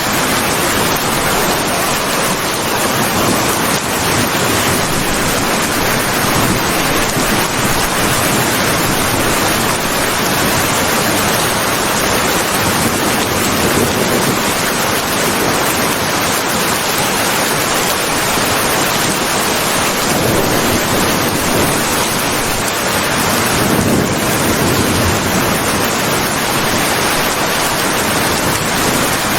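Steady heavy rain, an even rushing hiss with no distinct drops or thunder.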